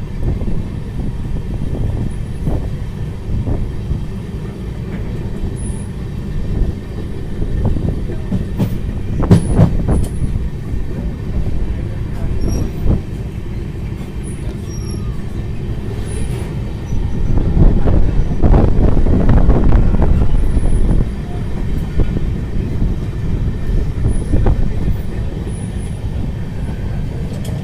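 A train running along the track, heard from on board: a steady low rumble with scattered knocks of the wheels over the rails, growing louder for a few seconds about two-thirds of the way through.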